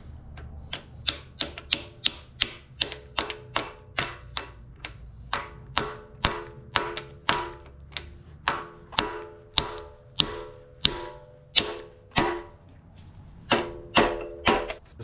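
Hammer repeatedly striking steel, about two ringing blows a second, with a short pause near the end before a few more blows.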